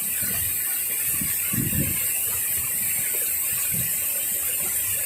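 Steady rush of flowing stream water over rocks, with a few low bumps.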